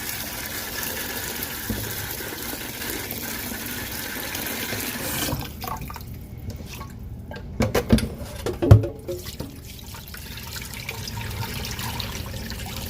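Kitchen tap running into a bowl of rice to wash it, stopping suddenly about five seconds in. A few sharp clunks follow, the bowl or pot knocking about in the sink, then softer sounds of the rice being washed.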